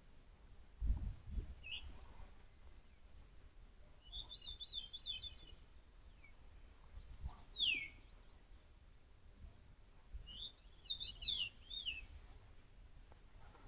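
Wild songbirds calling in woodland: several short warbled phrases and single down-slurred notes, spaced a few seconds apart. A few low thumps come about a second in and again midway.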